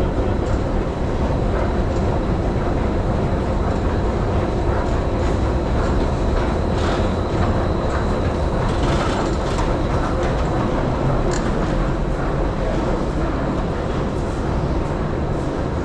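M2 metro train running at speed: a steady rumble with rattles and scattered rail clicks.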